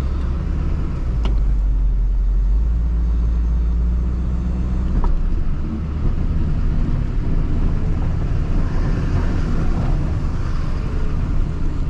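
Snowplow truck's engine running with a steady low rumble, with a single sharp click about a second in.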